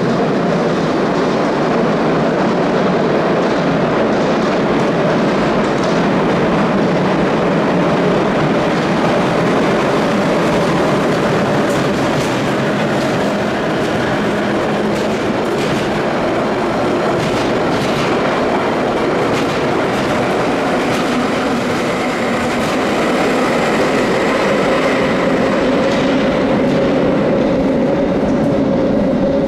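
London Underground battery locomotives L52 and L48 running through the station with a train of wagons: a steady rumble of wheels and motors, with clicks over the rail joints as the wagons pass. A steady whine comes in over the last third.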